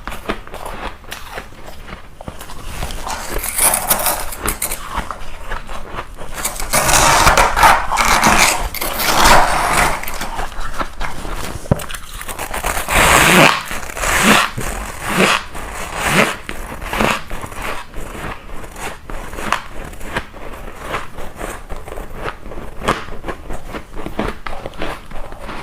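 Ice being bitten and chewed close to the microphone, a run of crunches and cracks. The crunching is densest and loudest about a third of the way in, then thins to lighter, scattered crunches.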